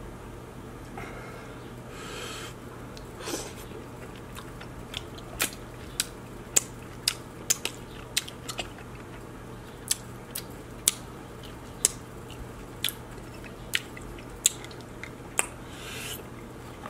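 Close-miked eating of king crab meat: chewing with sharp wet mouth clicks and smacks, irregular, about one or two a second.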